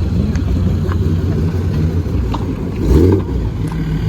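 Car engine running, getting louder briefly about three seconds in.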